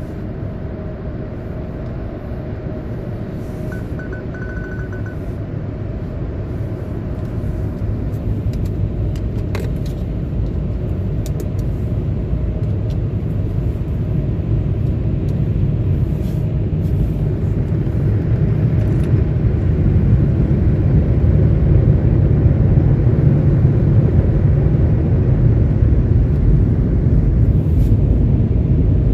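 Automatic car wash air dryer blowers running, a steady rush of air with a heavy low rumble that grows slowly louder.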